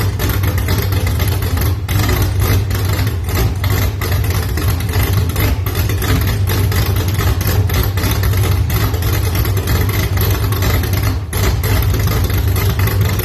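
GM LQ-series V8, swapped into a BMW E36, idling steadily with a deep, uneven pulse.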